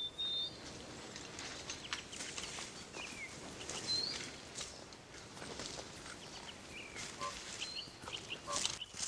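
Outdoor ambience: a soft steady hiss with a few short bird chirps every few seconds, and light scuffing footsteps that grow more distinct near the end.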